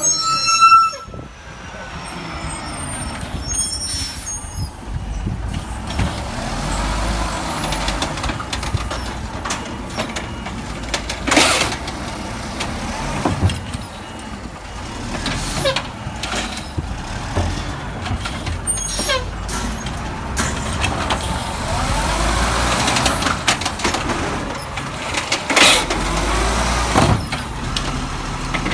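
Garbage truck running, with sliding whines and several sharp bangs and clatters.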